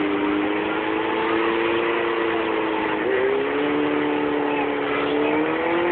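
Turbocharged truck engine held at high revs during a burnout, spinning its tyres to wear the tread off; the engine note wavers and shifts pitch about halfway through.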